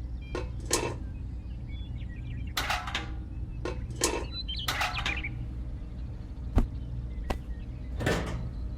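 A steady low mechanical hum, with about a dozen sharp clicks and knocks at irregular intervals.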